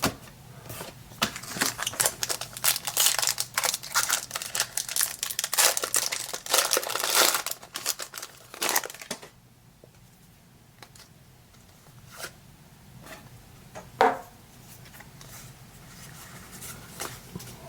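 Crinkly foil wrapper of a Pokémon booster pack being torn open and handled, a dense crackling for the first nine seconds or so. After that it goes quieter, with a few light clicks and one sharper knock about fourteen seconds in.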